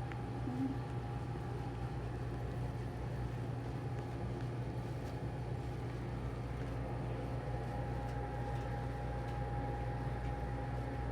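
Steady low machine hum with a faint, even high tone above it, unchanging throughout.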